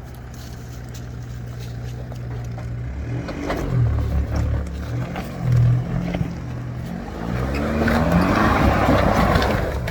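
Nissan Patrol 4WD engine climbing a rock step, running steadily low with bursts of revs about four and six seconds in, and a rising rush of noise over the last few seconds.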